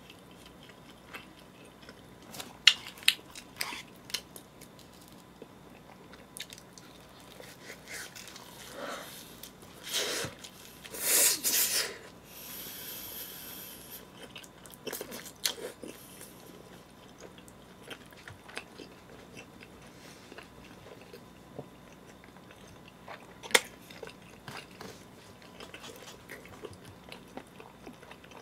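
Close-miked chewing and biting of a mouthful of pizza, with irregular wet mouth clicks and crunches, loudest about ten to twelve seconds in.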